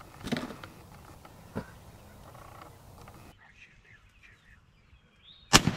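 A wild turkey gobbler gobbles once, briefly, about a third of a second in. Near the end comes a single sharp, loud shot from a Stevens 301 single-shot .410 shotgun, with a short echoing tail.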